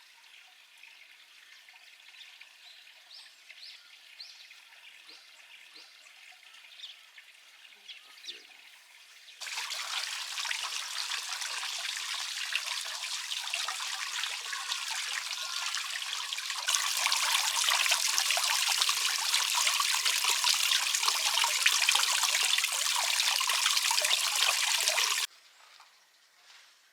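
Running water rushing steadily. It starts suddenly about nine seconds in, gets louder at about seventeen seconds, and stops abruptly near the end.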